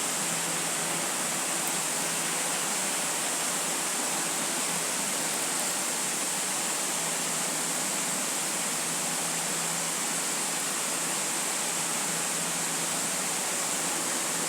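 Steady, even hiss with a faint low hum under it, unchanging throughout and with no distinct events.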